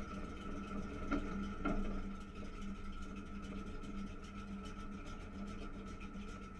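Race car engine idling, heard muffled from inside the cockpit, a steady pulsing hum. Two short knocks come a little after a second in.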